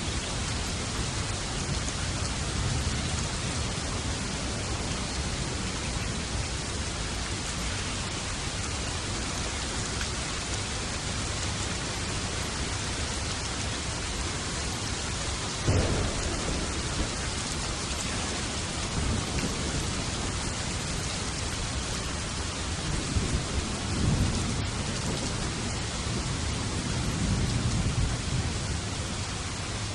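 Steady rain with thunder: a sudden clap a little past halfway, then rolling rumbles near the end.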